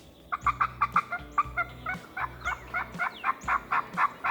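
Wild turkey gobbling: a rapid, rattling string of notes that starts a moment in and keeps going.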